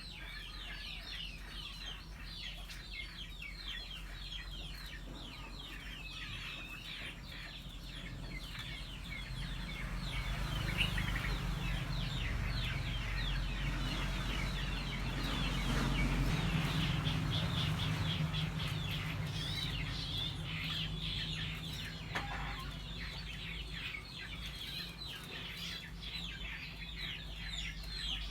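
Many birds chirping at once in a dense, continuous chatter of quick high chirps, with a low rumble swelling in the middle.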